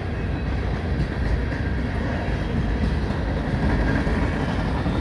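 Freight cars of a long CN train rolling past at speed: a steady rumble of steel wheels on the rails.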